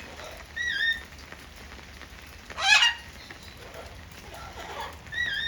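Captive parrots calling: a short wavering whistle about half a second in, repeated the same way near the end, and between them one loud harsh squawk.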